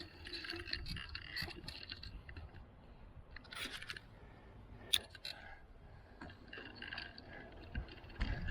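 A bicycle ridden on a city street: a low rumble of tyres and wind on the microphone, with scattered small clicks and rattles and one sharper click about five seconds in.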